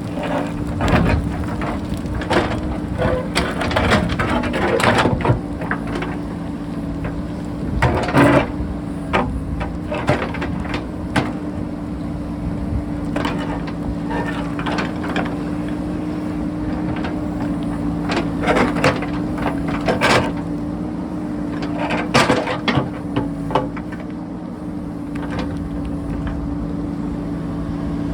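JCB backhoe loader's diesel engine running steadily, with repeated sharp knocks and scrapes of the bucket digging into rock.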